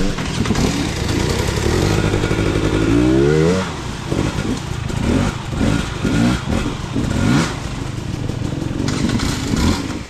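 Engine revving hard and unevenly: a long climb in pitch about two to three seconds in that drops away suddenly, then a string of short rises and falls in revs.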